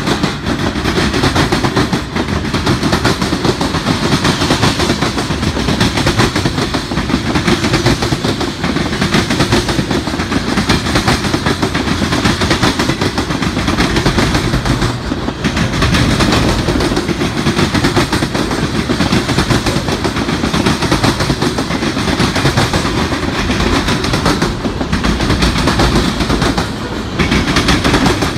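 Freight cars of a long mixed freight train rolling past close by: a steady, loud rumble of steel wheels on rail with a dense, continuous clatter of wheel clicks.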